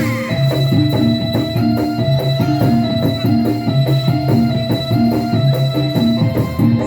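Instrumental music: an electronic keyboard holds organ-like notes over a repeating bass line, with a drum and percussion rhythm.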